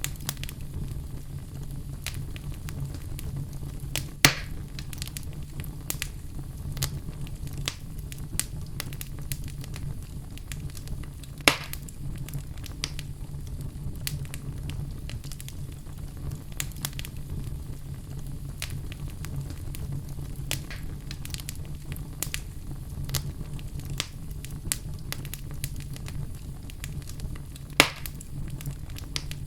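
Wood fire burning in a fireplace: steady crackling with many small snaps over a low rumble, and three louder pops, about four, eleven and twenty-eight seconds in.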